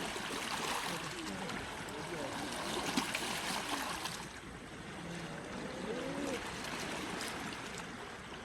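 Sea waves washing ashore, a steady rush of water that swells, eases off about halfway through and builds again. Faint voices can be heard underneath.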